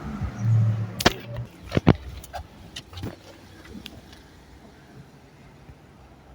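Electric gate or door opener mechanism: a low motor hum that stops about a second and a half in, followed by several sharp clunks and then quieter running noise.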